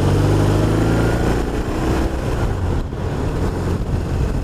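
BMW R1200RT's flat-twin engine pulling away, running steadily for about a second and a half before its note changes as the bike gets under way, with wind noise on the helmet microphone.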